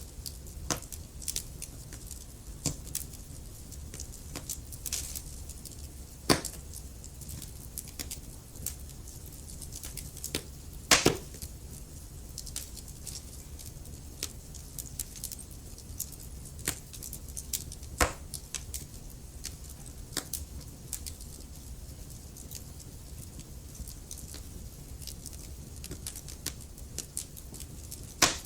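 Wood fire burning in a fireplace: a steady low rumble of the flames with frequent irregular crackles and occasional louder pops of burning wood.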